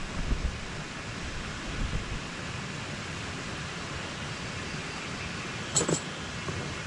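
Steady hiss of wind and rain, with low wind rumble on the microphone in the first two seconds and two sharp clicks close together near the end.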